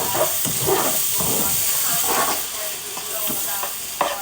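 Chicken and vegetables sizzling in a frying pan while being stirred, with a steady hiss and scraping of the utensil, and a sharp knock near the end.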